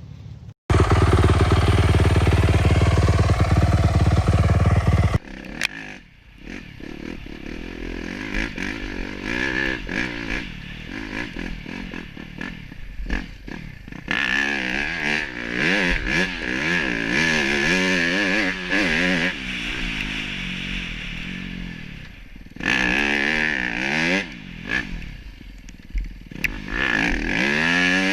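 Snow bike engines, dirt-bike engines on tracked snow conversions, revving up and down again and again as the bikes ride around. The first few seconds are a loud, steady rush, and after that the engine pitch keeps rising and falling.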